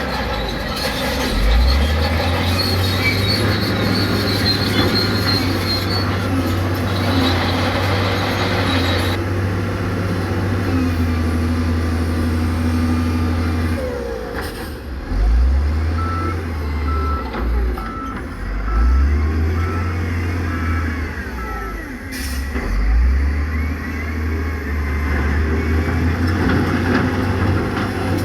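Heavy diesel construction machinery running, its engines revving up and down under load several times. A reversing alarm beeps at an even pace for a few seconds past the middle.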